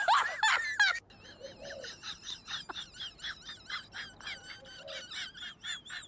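A loud, high wailing voice with sliding pitch for about the first second, then a small bird chirping rapidly and steadily, about four to five high wavering chirps a second.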